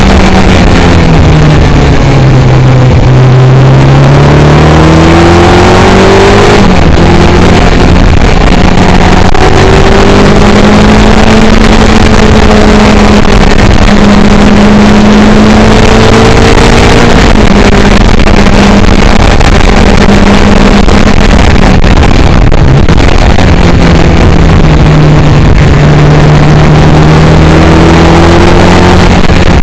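A Caterham Seven's engine is heard loud from inside the open cockpit, pulling hard on track. Its pitch falls and climbs with the revs, with breaks for gear changes about seven and twenty-three seconds in, under a constant rush of wind noise.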